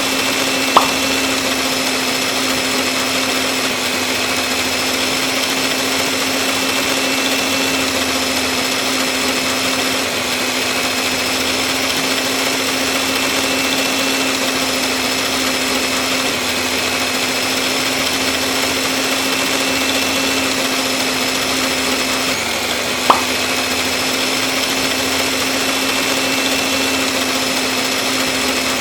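Small motor running steadily at a constant pitch, with two sharp clicks: one about a second in and one near the end.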